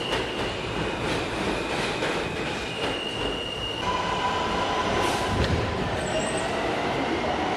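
New York City subway train running on the rails, its wheels squealing. A steady high-pitched squeal gives way to a lower squeal about halfway through, over a constant rumble.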